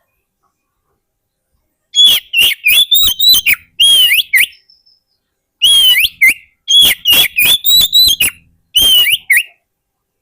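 Oriental magpie-robin (kacer) singing: two runs of loud, quick whistled notes sweeping up and down in pitch, each lasting about three to four seconds. The first starts about two seconds in, and there is a short pause between the two.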